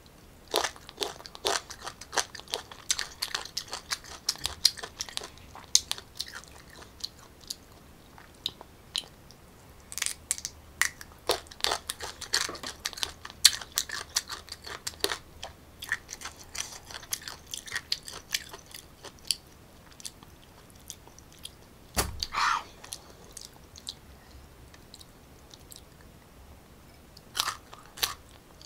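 Close-up crunching and chewing of crisp, unripe green mango: bursts of sharp crunches that thin out for a while after the first bite and again in the second half, with one louder thump about 22 seconds in.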